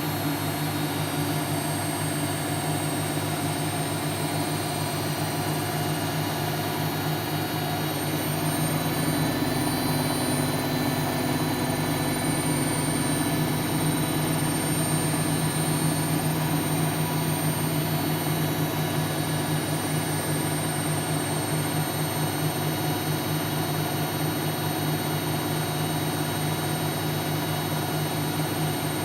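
Siemens Siwamat C10 washing machine running, its motor giving a steady whine over a low hum. About nine seconds in, a deeper rumble joins and it gets slightly louder.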